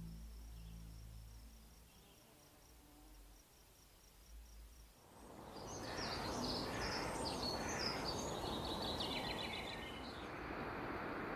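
Outdoor ambience with steady background noise. Birds chirp in quick, busy calls for a few seconds in the middle and then stop, leaving the hiss.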